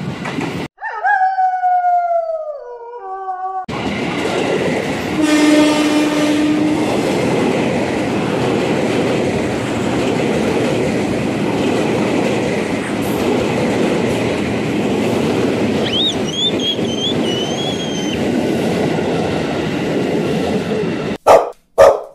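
Electric commuter train (ex-Japanese 205 series EMU) passing close by: one horn blast of about a second and a half, then the steady rumble and wheel clatter of the cars going past, with brief wheel squeals. Near the start a few seconds of an edited-in sound effect with falling pitch cut in, and near the end a string of short separate bursts from an edited insert.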